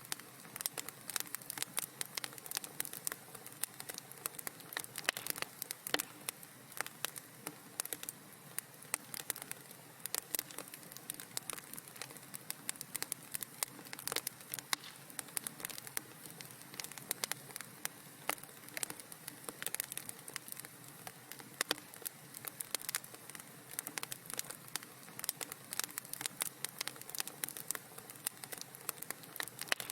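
Wood fire in a fireplace crackling steadily: many small irregular pops and snaps over a soft hiss.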